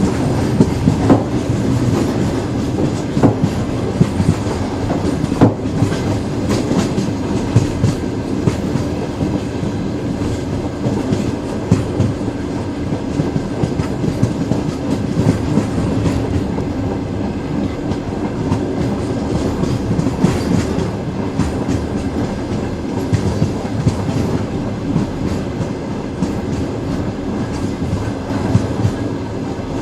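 Train wheels running on the rails: a steady rumble with irregular clicks and knocks as the wheels pass over rail joints.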